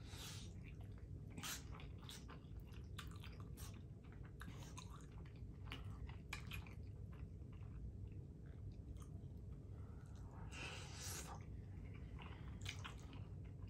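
Close-miked mouth sounds of someone chewing a mouthful of soft Hot Cheetos-flavoured macaroni and cheese: faint wet smacks and small clicks, with a brief breathy hiss a little over ten seconds in.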